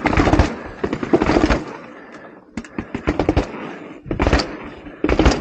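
A bike rattling down a staircase: clusters of rapid sharp knocks and clatter, several bursts about a second apart.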